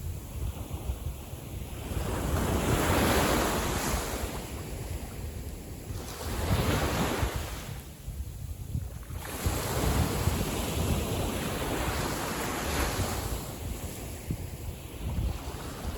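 Calm sea waves washing in and drawing back, a hiss that swells and fades every few seconds, with wind buffeting the microphone in a steady low rumble.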